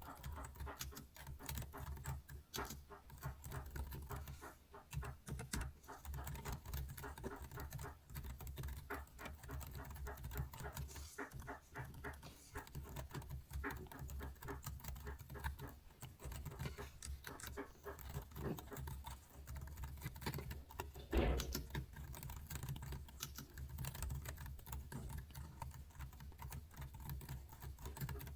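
Computer keyboard keys clicking in quick, irregular runs of typing, over a steady low hum, with one louder knock about three quarters of the way through.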